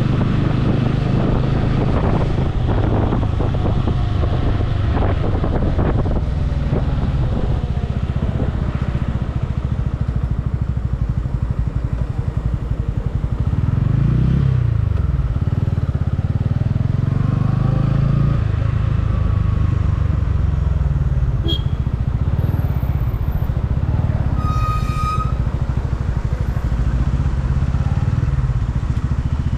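Motorcycle engine running under way, with road and wind noise; the engine note rises and falls briefly about halfway through. Late on, a vehicle horn sounds once, briefly.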